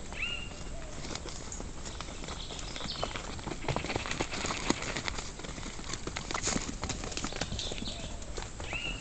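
Animal footsteps crunching and rustling over dry leaves and twigs, an irregular patter of clicks, with a short high chirp near the start and again near the end.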